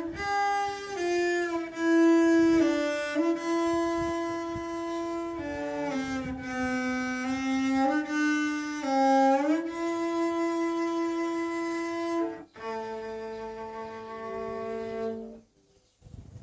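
A solo bowed string instrument plays a slow melody of sustained notes, sliding from one note to the next. Near the end it holds two notes together for a few seconds, then stops.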